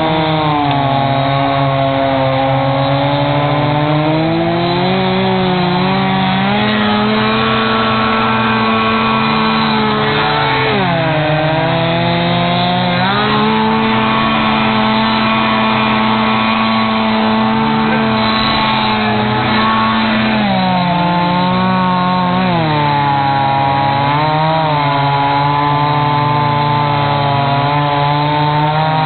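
An engine running hard without a break, its pitch rising and falling again and again as it is revved up and eased off.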